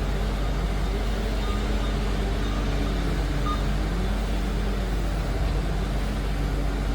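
Liebherr PR 746 crawler dozer's diesel engine working under load: a steady deep rumble whose engine note rises and falls slowly several times as the machine works.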